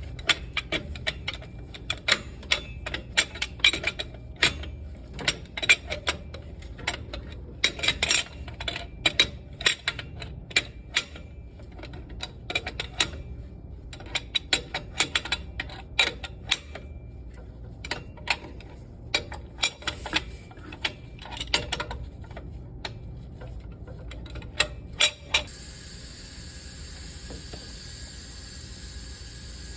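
Irregular sharp metallic clicks and knocks, several a second in uneven clusters, then about 25 seconds in a steady hiss starts and the clicking stops.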